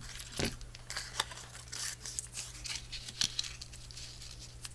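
Paper pieces rustling and crinkling as they are handled and shifted on a work surface, with a few light clicks and taps, over a faint steady low hum.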